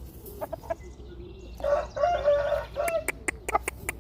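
A rooster gives one pitched call lasting just over a second, from about one and a half seconds in. Right after it comes a quick series of sharp clicks.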